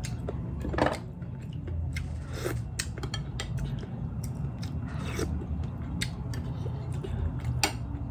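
Close-miked eating: biting and chewing with sharp, wet clicks and smacks at irregular moments, over a steady low hum.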